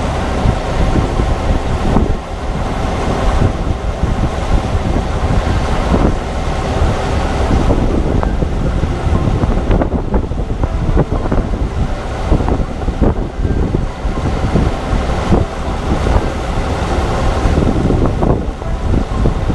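Heavy farm machinery running steadily under load, a deep engine rumble with a steady hum and scattered rattles, with wind buffeting the microphone.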